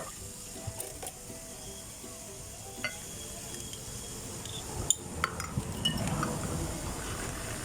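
Drinks being mixed by hand: utensils and cups clinking and stirring, with several sharp clinks, over a steady hiss.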